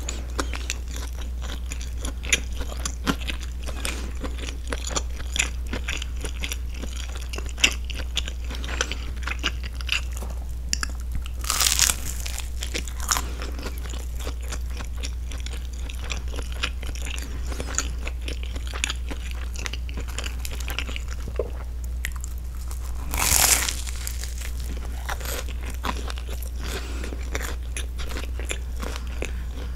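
Close-miked chewing and crunching of a grilled broccoli cheese sandwich, its toasted bread crackling between the teeth in many small crisp clicks. Twice a louder breath through the nose rises over the chewing. A steady low hum runs under it all.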